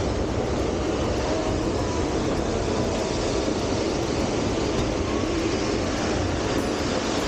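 Steady rolling rumble of a narrow-gauge train's open passenger car running along the track.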